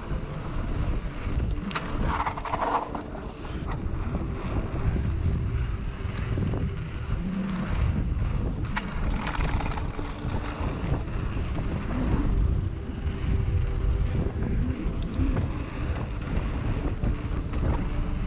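Mountain bike descending a dirt bike-park trail: steady wind rushing over the microphone with tyre and frame noise, and scattered short knocks as the bike goes over bumps.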